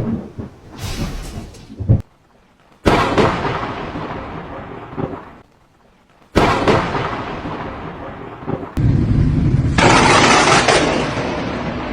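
Several close lightning strikes one after another: each thunderclap begins with a sudden sharp crack and rumbles away over a couple of seconds, with abrupt cuts between them. Near the end comes a loud rushing noise lasting about a second.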